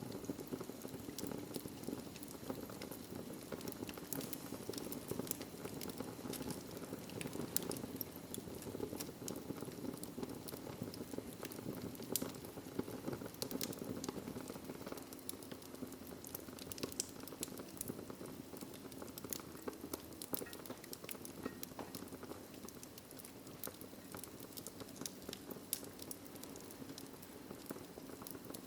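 Wood fire crackling in a fireplace: a steady low rush of flames under frequent sharp pops and snaps.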